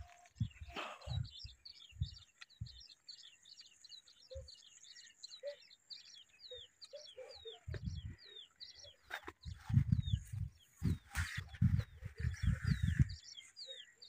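A bird chirping steadily, a long series of short high notes about three a second. Bursts of low rumbling thumps come and go, heaviest in the second half.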